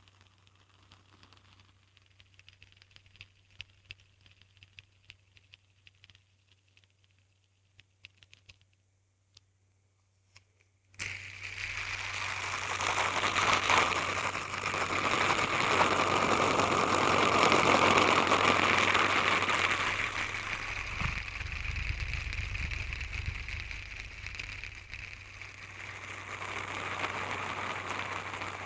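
Faint handling clicks, then about eleven seconds in a hand spinner is flicked and spins with a sudden, loud whirring rattle. The whirring carries on, growing weaker, then swells again near the end.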